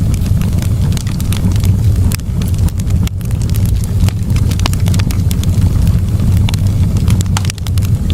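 Campfire burning, with frequent sharp crackles and pops at irregular intervals over a steady low rumble.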